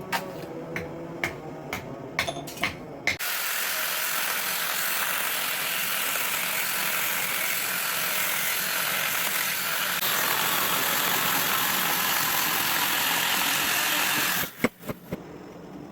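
A few light metal taps, then a power tool grinding the steel sickle blade with a steady hissing noise for about eleven seconds, slightly louder partway through, cutting off into a few more taps near the end.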